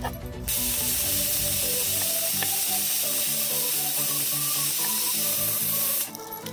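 Sizzling hiss of food frying in hot oil, starting about half a second in and cutting off abruptly near the end, over background music.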